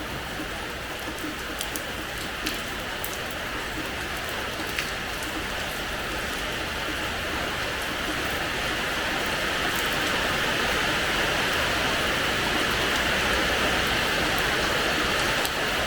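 Rain falling on a hard terrace floor: a steady hiss with scattered sharp drop splats, growing slightly heavier about two-thirds of the way through.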